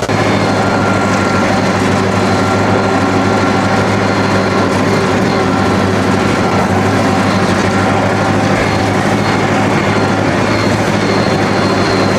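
John Deere combine harvester's diesel engine running steadily, just after catching on the first try after a year without running.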